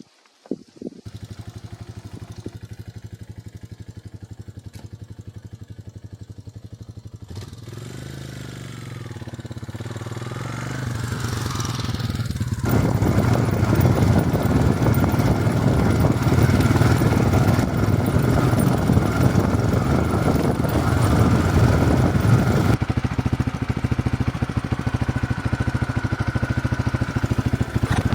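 Honda XL250S single-cylinder four-stroke engine: it starts with a few sharp bursts, then idles steadily. After about eight seconds it revs up as the bike pulls away, and it runs loud and steady at riding speed.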